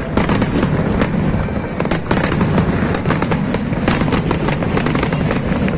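New Year fireworks display: a dense, unbroken run of bangs and crackles over a steady low rumble.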